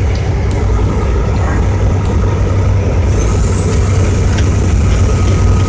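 Diesel truck engine and road noise, a steady deep rumble while driving; about halfway, a faint high whine rises in pitch.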